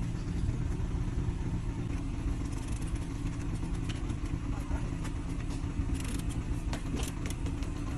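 Low, steady rumble of an idling vehicle engine, with scattered light clicks and clanks of bicycles being handled on a bike rack, most of them about six to seven seconds in.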